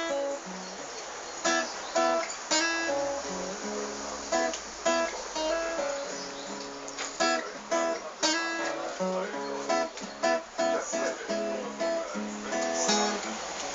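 Solo acoustic guitar playing an instrumental passage, with single plucked notes and strummed chords in a steady flow, as a folk song's intro.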